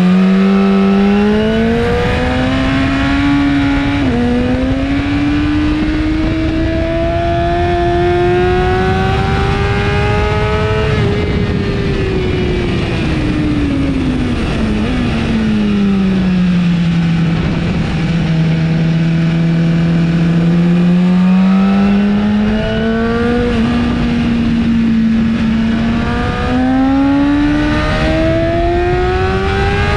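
2017 BMW S1000RR inline-four with an Akrapovic exhaust, ridden hard: the engine note climbs and steps down at upshifts in the first few seconds, falls away for several seconds around the middle as the bike slows, then climbs again with more upshifts near the end. A steady rush of wind runs under it.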